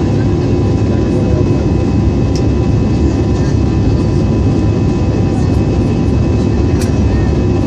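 Jet airliner cabin noise in flight, heard from inside the cabin of an Airbus: a steady, loud rumble of engines and airflow with a constant whine on top. Two brief clicks stand out, one a couple of seconds in and one near the end.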